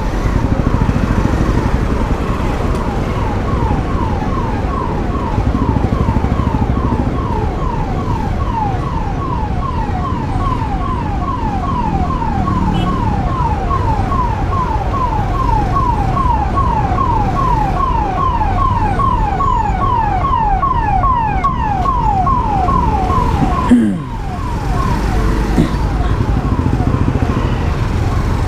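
Emergency-vehicle siren wailing in rapid falling sweeps, about two a second, fading out near the end, over a steady low road and wind rumble. A single sharp knock sounds a few seconds before the end.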